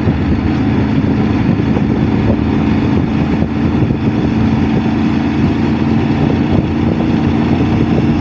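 Motorcycle engine running at a steady speed under way, with wind and road noise over it.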